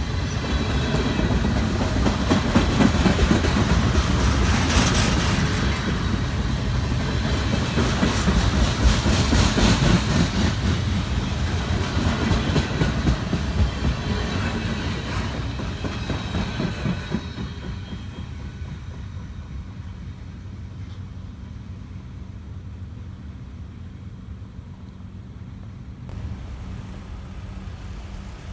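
A CSX freight train's cars rolling past on the track. The noise dies away about two-thirds of the way through, leaving a low steady hum.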